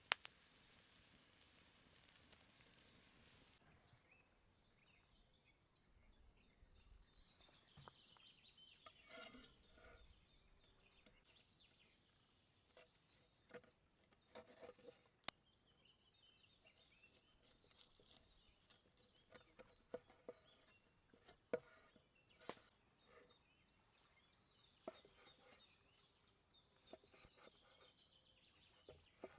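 A faint frying sizzle from the campfire pan cuts off after about four seconds. Then scattered light clicks and knocks of utensils on cookware as the food is served, with faint bird chirps.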